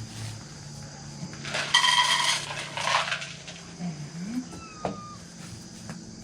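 Dry cat food clattering into a dish in a short burst about two seconds in, then a few quieter knocks and rattles.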